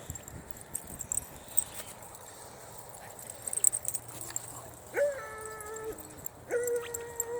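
A dog whining twice: two drawn-out whines held at a steady pitch, each about a second long, in the second half, over faint clicks and rustling.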